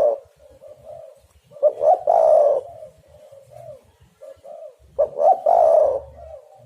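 Spotted dove (tekukur) cooing: two full phrases, each a couple of quick notes running into a longer, louder coo, with softer coos between them.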